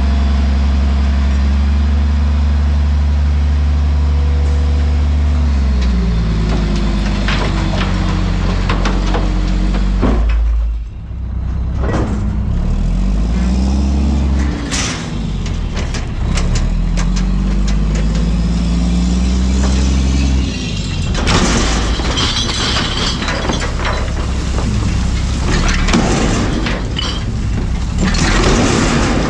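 Front-loader garbage truck's diesel engine idling, then revving up and down several times as it drives the hydraulic arms. Over the last third comes a long stretch of crashing and clattering, refuse falling into the hopper.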